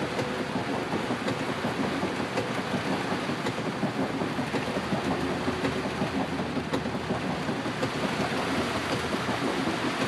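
Heavy rain pouring down, heard from inside a car driving through a flooded street: a steady rushing noise of rain on the car and water washing around it, with a few faint taps.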